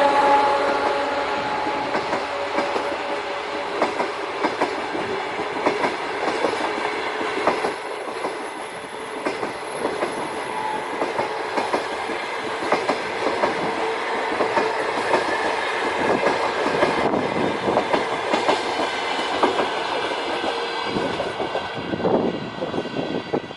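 A passenger train passes close by, its wheels clacking over the rail joints in a fast, irregular rhythm over a steady rumble. A horn blast dies away right at the start, and the clatter drops off sharply near the end as the train passes.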